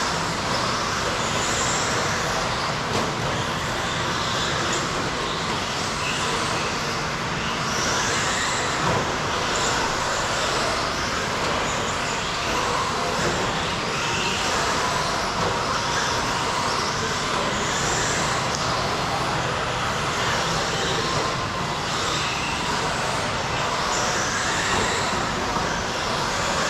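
A pack of electric RC stadium trucks racing, their motors making overlapping high whines that rise and fall as they accelerate and brake around the track, over a steady wash of tyre and track noise.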